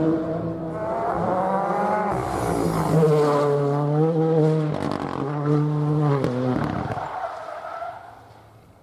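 Rally car engine pulling hard and changing up through the gears, pitch climbing and dropping several times, with a short burst of tyre noise partway through; the car then fades away into the distance.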